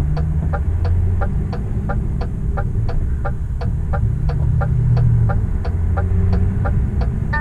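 Hazard-light tick-tock of a DAF CF truck's cab, a pitched electronic tick and tock about three times a second, over the low steady rumble of an idling diesel engine.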